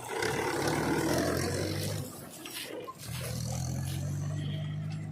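Heavy diesel engine running at a steady pitch, dipping for about a second partway through before it steadies again.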